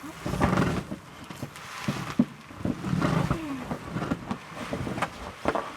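A person's strained breaths and grunts of effort while heaving a large tree, twice in surges, with branches rustling and a few sharp knocks.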